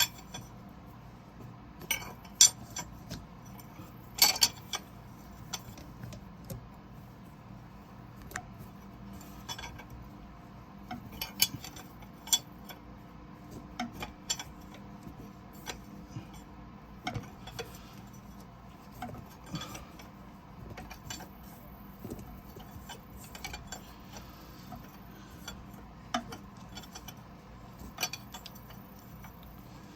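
Irregular metal clicks and clinks as a 15/16 wrench is worked in short strokes on the nut of an injector cup puller, slowly drawing a bad injector cup out of a Caterpillar 3406E cylinder head. A faint steady hum sits underneath.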